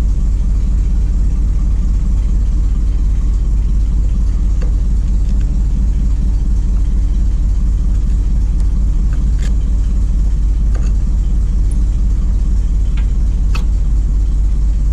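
Ford F700's 370 V8 gasoline engine idling steadily, with an exhaust manifold leak, and a few light clicks on top.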